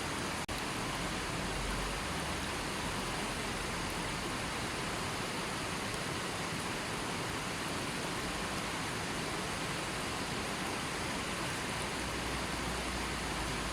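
River water flowing, a steady even rush with no birds, with a momentary dropout in the sound about half a second in.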